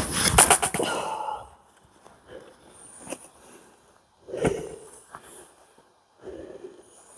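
Fiskars XXL splitting axe striking a knotty pine log: a heavy blow with echo right at the start, then a smaller knock or two, with the woodcutter's hard breathing between strikes.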